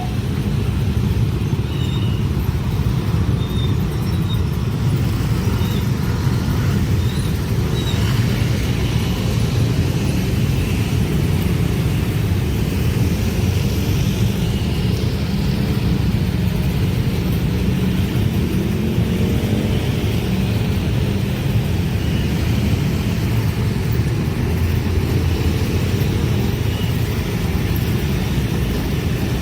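Steady low rumble of a train passing a level crossing, continuous and even, with faint high squeals over it.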